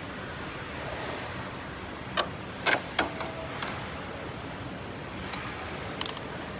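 Sharp clicks and knocks of tools and metal parts being handled during rear disc brake work on an electric bike: a cluster of them near the middle, with a few single ones later, over a steady hiss.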